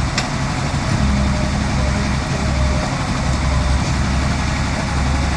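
Excavator's diesel engine running, a deep rumble that swells and eases every second or so.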